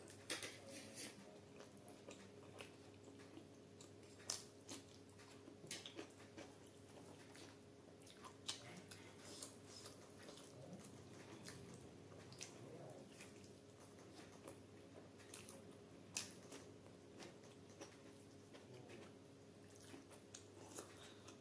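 Faint, close-miked eating sounds: chewing and wet mouth sounds from a mouthful of rice and curry, with scattered sharp clicks and smacks throughout.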